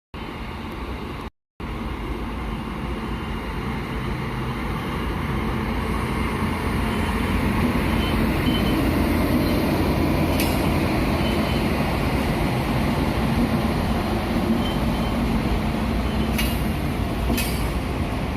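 Long freight train behind a WAG9 electric locomotive rolling slowly past, a steady rumble that builds over the first several seconds and then holds. Audio drops out briefly just after the start, and a few sharp clicks come through about ten seconds in and twice near the end.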